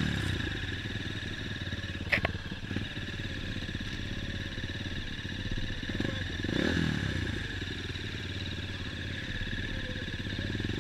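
Dirt bike engines running, with a sharp click about two seconds in and an engine's pitch rising then falling as a bike passes about six and a half seconds in.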